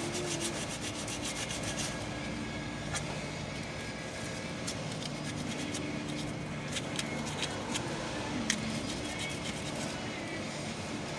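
Steady rubbing and scraping of hand work, with scattered light clicks and one sharper click near the end.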